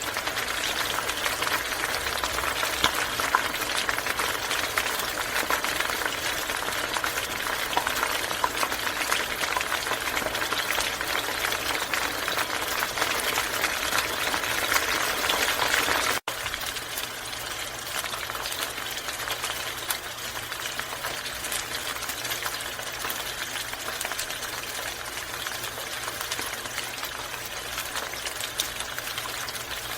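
Hot oil sizzling and crackling steadily as quail deep-fry in it, dropping a little in loudness after a sudden break about halfway through.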